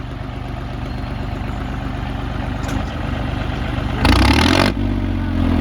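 Tractor diesel engine running steadily under load. About four seconds in there is a sudden loud rush of noise lasting under a second, and then the engine note climbs slightly.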